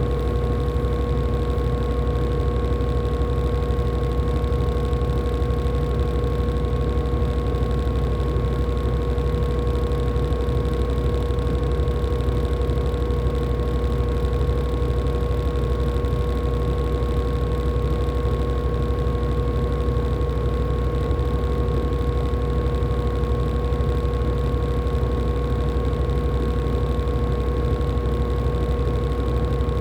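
LG top-load washing machine spinning at a steady speed in its spin cycle: an even motor whine over a low rumble, with no pauses or change in pace.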